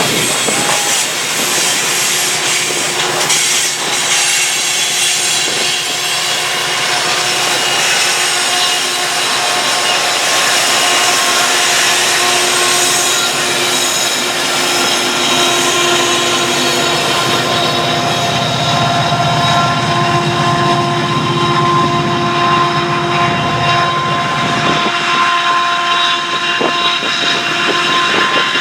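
BNSF freight train cars rolling past: a steady loud rattle and rush of wheels on rail with several steady ringing tones held over it. The low rumble drops away near the end.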